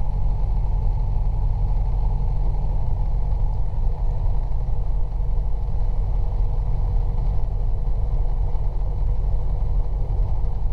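Robinson R22 helicopter's piston engine idling with the clutch disengaged, a steady low rumble: the cool-down idle before the mixture is pulled to stop the engine.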